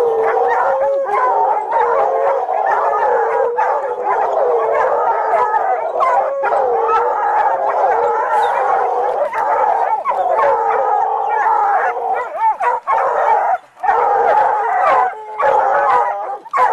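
Several dogs howling and yelping together, their wavering calls overlapping without a break.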